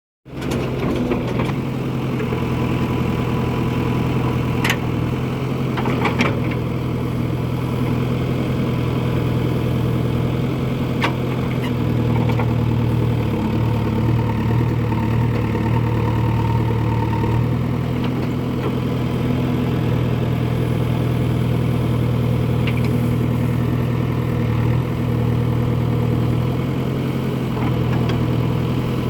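Heavy machinery diesel engine running steadily at a constant speed, with a few sharp knocks in the first half.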